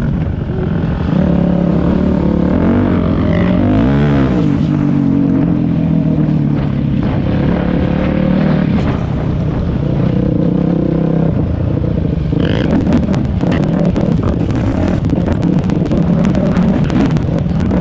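Dirt bike engine running under riding load, its pitch rising and falling as the throttle is worked. About two-thirds of the way through, a harsh crackling noise joins in.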